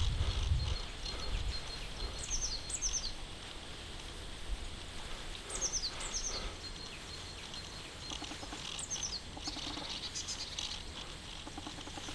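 A bird singing three short phrases of quick descending high notes, a few seconds apart, over a faint outdoor background. Low thuds sound in the first second.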